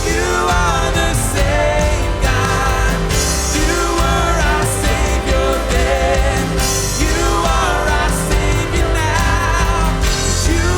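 Live worship band playing a full-band contemporary worship song, with drums, bass, guitars and keys under wavering sung or lead melody lines, and cymbal washes every few seconds.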